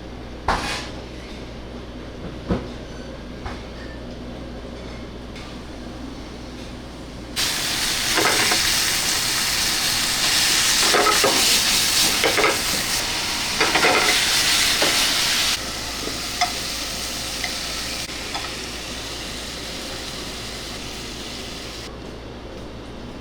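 Kitchen work sounds over a steady low hum: a few sharp knocks, then about eight seconds of loud, sizzle-like hissing with clatter that starts and stops abruptly.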